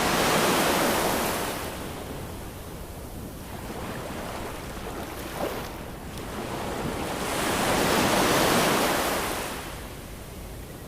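Ocean waves washing on the shore: a steady hiss of surf that swells up twice, once at the start and again about seven seconds later, each wave rising and fading over a couple of seconds.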